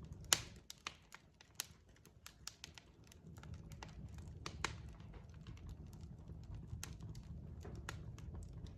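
Wood fire crackling: burning logs giving off irregular sharp pops and snaps, the loudest about a third of a second in, over a low steady rumble of the flames.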